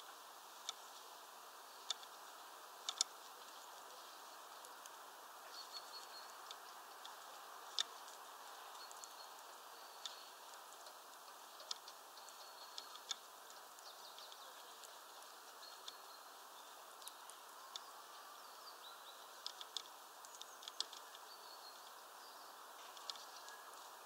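Faint high, thin bird calls, short and repeated every second or two, with scattered sharp ticks at irregular intervals over a steady hiss.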